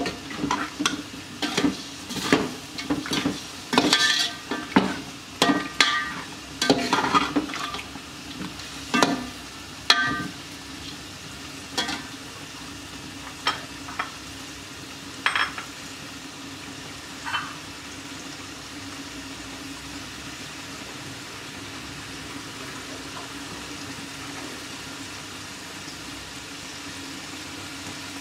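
A slotted metal spoon stirring and scraping against a metal pot for about ten seconds, then chicken in yogurt and spice masala sizzling steadily as it fries over a high gas flame, with a few lone clicks. This is the stage where the masala is fried down.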